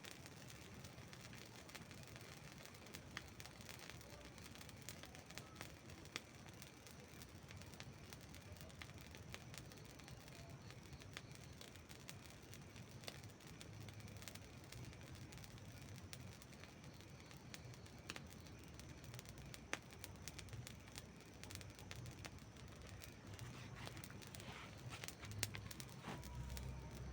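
Campfire burning quietly, the wood giving scattered sharp crackles and pops over a faint hiss. A low rumble builds near the end.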